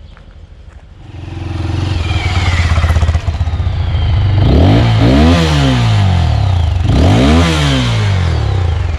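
Motorcycle engine running, growing louder about a second in, then revved up and back down twice.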